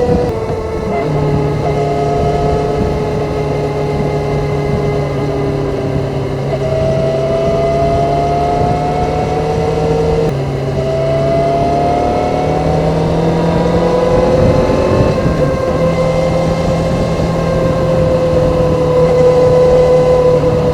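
Stock Kawasaki ZZR400 inline-four running under way with its standard exhaust. The engine note rises and falls gently, dips suddenly about ten seconds in, then climbs again.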